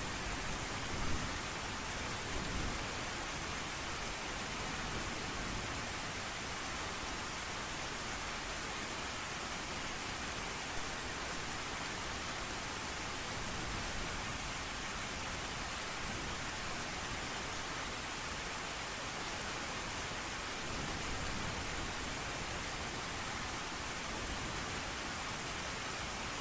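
Steady rain falling. A few short, louder spatters stand out: about a second in, again a second or so later, and once near eleven seconds.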